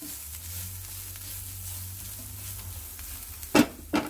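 Shredded cabbage and green capsicum sizzling in a nonstick frying pan as they are stirred with a spatula. Near the end come two loud knocks about half a second apart, the spatula striking the pan.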